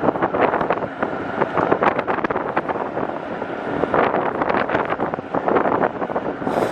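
Wind buffeting the microphone of a moving e-bike in uneven gusts, over road noise from the ride.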